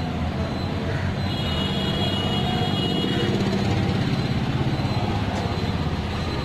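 Car engine running steadily at idle, a low even rumble that swells a little midway.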